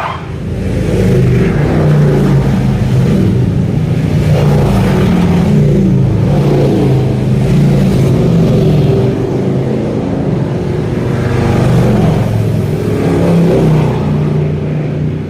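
A motor vehicle engine running loudly nearby, a continuous low drone whose pitch rises and falls, drowning out other sound.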